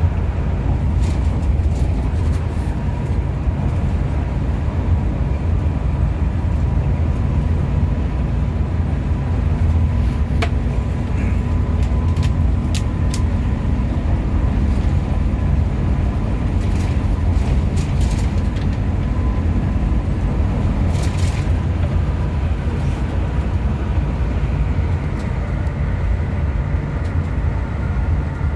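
Hino RM 280 diesel bus on the move: a steady low drone of engine and road noise, with scattered light clicks and rattles.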